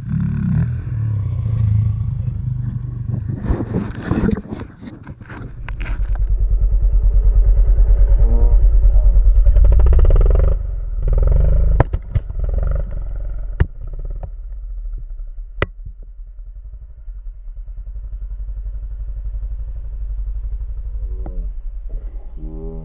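Motorbike engine running. About six seconds in it builds up and holds loud for several seconds, then eases back to a lower steady run. A few seconds in there is some clattering, and a few sharp clicks follow later.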